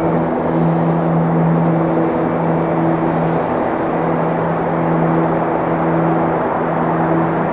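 Vehicle engine running at a steady speed with a constant low hum, under even road and wind noise.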